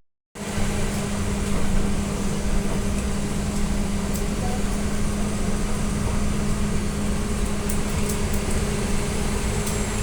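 Steady running noise inside an AKSM-321 trolleybus cabin, with a constant low hum under an even rush of road and machinery noise. The sound cuts out briefly right at the start.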